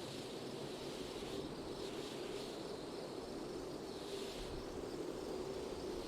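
Steady wind ambience: a constant low rush with soft swells of higher hiss coming and going every second or two.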